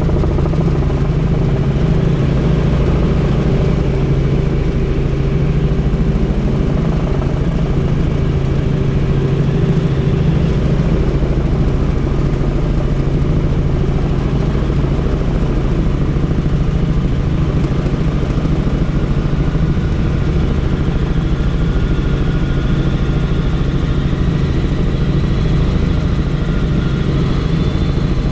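Helicopter in flight heard from on board: steady engine and rotor noise with a strong low hum.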